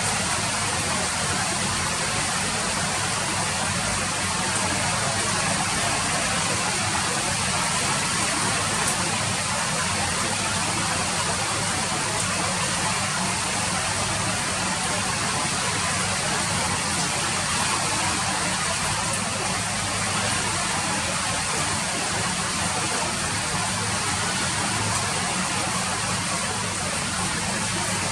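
Steady rain falling, an even hiss of drops with no separate splashes standing out.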